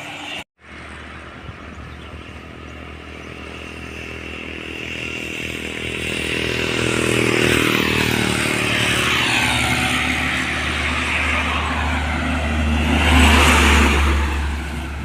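A truck on a highway approaching and passing by: engine and tyre noise grow steadily louder, peak near the end, then drop away. The sound cuts out briefly about half a second in.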